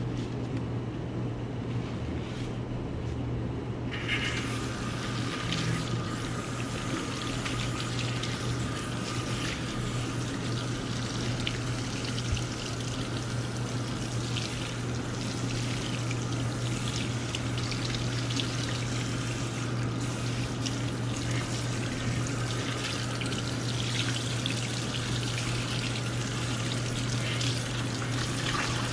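Water running at a shampoo basin while hair is washed and rinsed, starting about four seconds in as a steady rushing hiss. A steady low hum sits underneath throughout.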